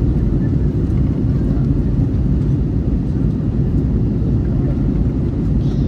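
Airbus A321 cabin noise: a steady low rumble of engines and airflow heard inside the cabin.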